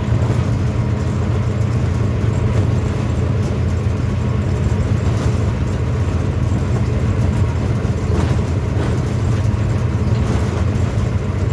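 Passenger train passing close by: a loud, steady rumble of wheels on rails, with a few faint clacks over rail joints.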